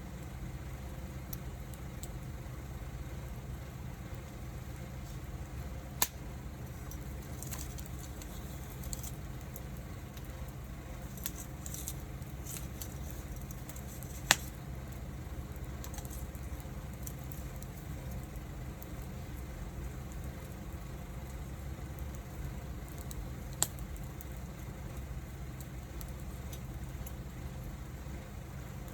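Wood fire burning with a steady low rumble and faint crackle, broken by three sharp pops from the burning wood, the loudest about halfway through.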